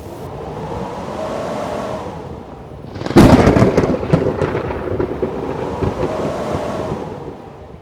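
Howling blizzard wind, rising and falling. About three seconds in, a sudden loud crack rumbles away over the next few seconds like a thunderclap.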